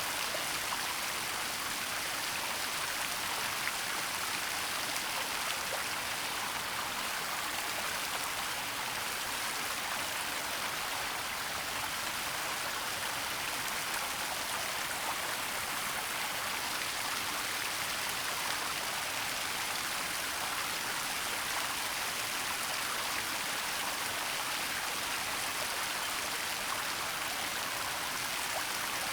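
Waterfall and flowing stream water making a steady, even rushing hiss.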